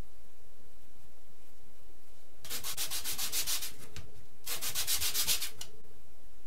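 Hand sanding: two short bouts of quick back-and-forth sandpaper strokes, about a second each, with a pause between them.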